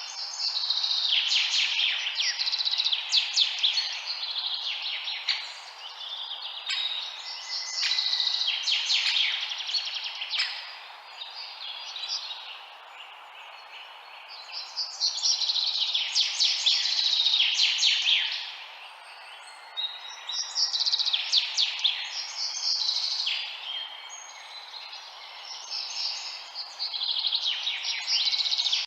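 Several small birds chirping in dense bursts of rapid high chirps lasting a few seconds each, with short lulls between. A steady hiss runs underneath.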